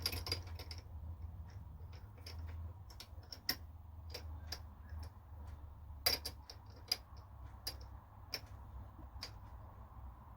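Scattered light clicks and taps at irregular intervals over a faint, steady low hum.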